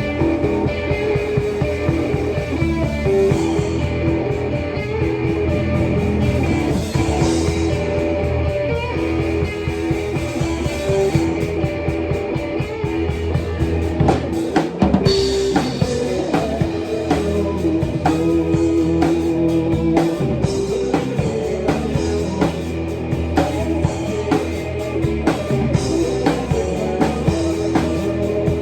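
Live band playing an instrumental passage on drum kit and guitar, with steady drumming.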